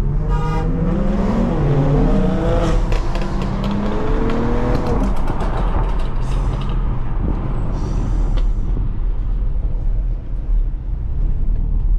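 BMW engine and exhaust accelerating hard, its pitch climbing and dropping through gear changes, with a few sharp exhaust cracks. After about five seconds it settles into a steady rumble of engine and road noise.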